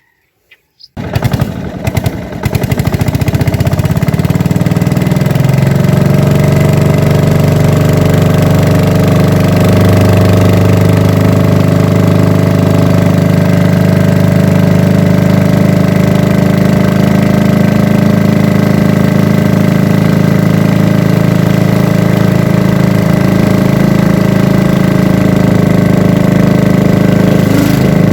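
A small engine starts about a second in, sputters briefly, then runs steadily and loudly close to the microphone.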